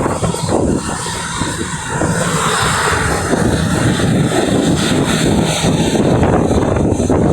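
Airbus A320neo airliner's jet engines running, a steady loud rush that grows louder about two seconds in.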